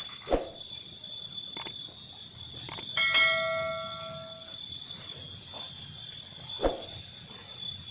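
A sharp metallic clang about three seconds in that rings on in several clear pitches for about a second and a half, with a dull knock near the start and another near the end. Under it runs a steady high-pitched drone of forest insects.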